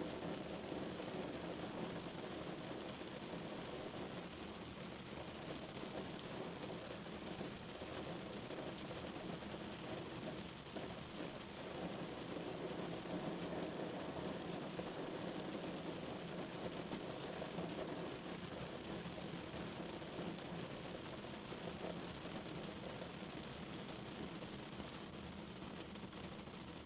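Rain falling steadily on a car, an even wash of sound with faint small drop taps through it.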